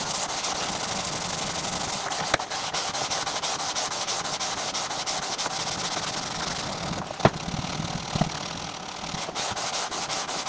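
Sandpaper worked by hand back and forth over a guitar fretboard, smoothing off a hardened superglue chip repair, with rapid scratchy strokes and two light knocks, about 2 and 7 seconds in.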